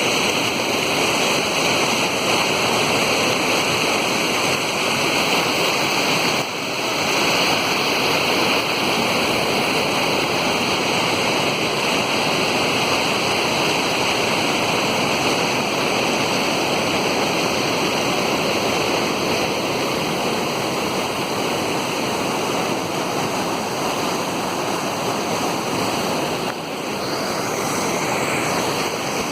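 Waterfall pouring: a loud, steady rush of falling water, dipping briefly twice.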